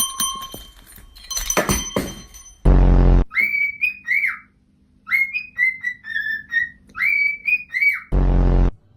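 Pet talking bird whistling a run of short notes that rise and fall, broken by two short, loud buzzing blasts, one about three seconds in and one near the end.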